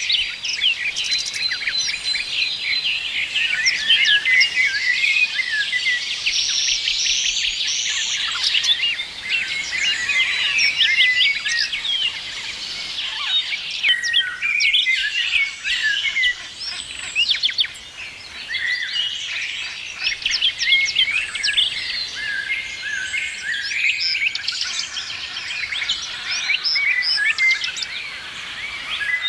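A chorus of many songbirds chirping and singing at once, dense overlapping short calls and trills with no pause.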